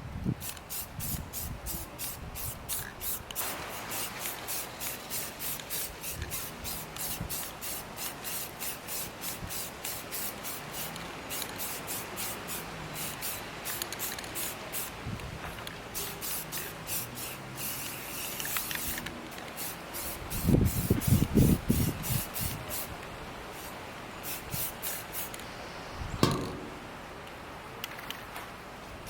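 Aerosol spray paint can spraying onto a metal wheelbarrow in rapid, repeated hissing spurts. A loud, low rumbling burst comes about 21 seconds in, and a single knock about 26 seconds in.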